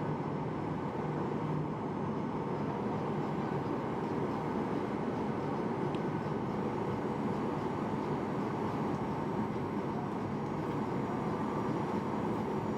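Steady cabin noise inside a Boeing 737-800 airliner: an even rush of engine and airflow noise with faint steady hums underneath, unchanging throughout.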